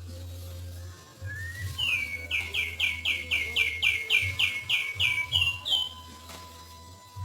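Songbird calling: a couple of single sweeping notes, then a fast run of about a dozen repeated high notes at roughly three a second, over a steady low hum.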